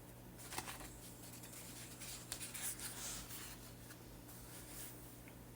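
Paper pages of a coloring magazine being turned and handled, a short crisp rustle about half a second in and a longer one around two to three seconds.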